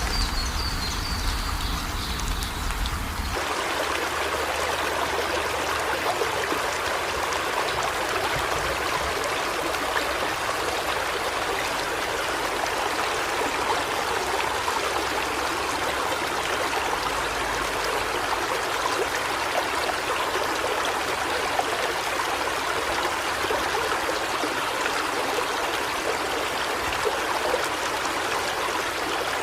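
Steady sound of running water, like a flowing stream, with no distinct birdsong standing out. The first few seconds have a lower rumble before the even water sound settles in.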